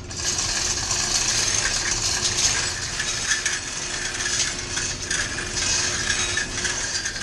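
Hand-operated chain hoist being worked to lift a steam turbine rotor, a continuous rattle of chain links with fast ratchet-pawl clicking that starts suddenly.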